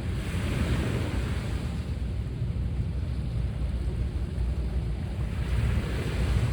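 Sea waves breaking and washing ashore, with two surges of surf about five seconds apart, over a steady low rumble of wind on the microphone.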